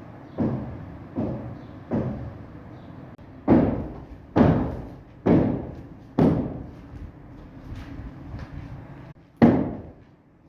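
A series of about ten heavy knocks, roughly one a second, each ringing out briefly before the next. The loudest ones come near the middle and one near the end.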